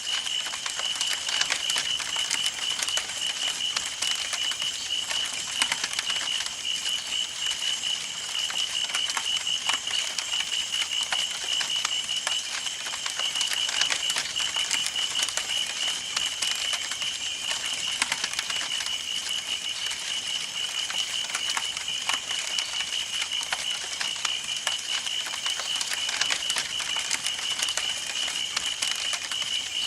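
Campfire burning: wood crackling and popping in dense, irregular clicks, over a steady high pulsing trill.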